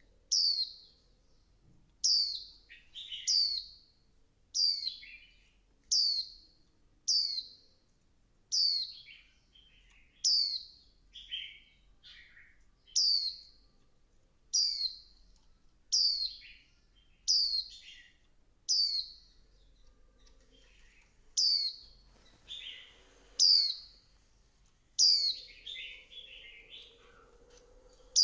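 Female white-eye calling: short, high, downward-sliding call notes repeated about once a second, some followed by softer lower chirps, growing busier near the end. These are the female calls used to rouse male white-eyes into song.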